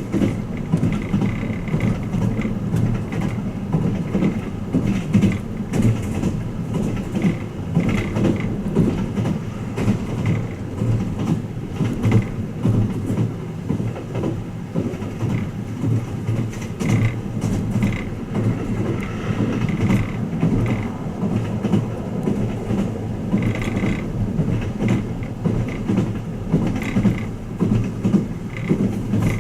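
Interior running noise of the Twilight Express Mizukaze train in motion: a steady low rumble of the wheels on the rails, with light irregular rattles and clicks.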